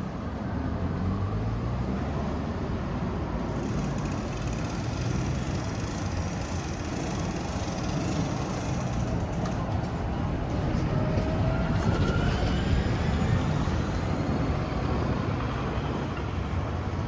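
Road traffic running steadily, with a vehicle's engine note rising in pitch about two-thirds of the way through as it pulls away.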